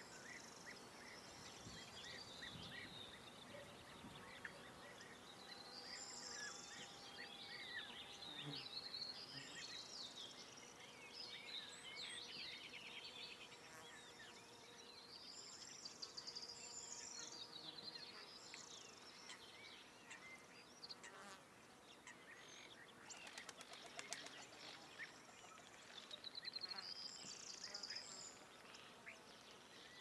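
Small birds singing faint, high chirping and warbling phrases with short pauses between them, evening birdsong over an open field. About two-thirds of the way through there is a brief rapid buzzing rattle.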